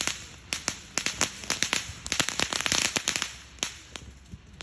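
Firecrackers going off in a rapid, irregular series of sharp pops, densest a couple of seconds in and petering out near the end.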